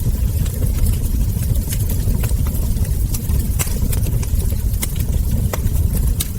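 Wood fire burning with a steady low rumble and frequent irregular sharp crackles and ember pops.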